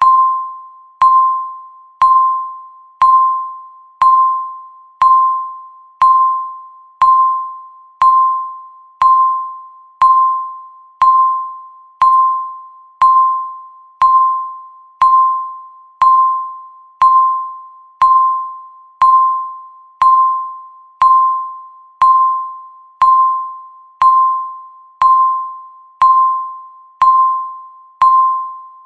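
Electronic countdown-timer beep sounding once a second, evenly spaced: each a single clear tone that starts sharply and fades away before the next.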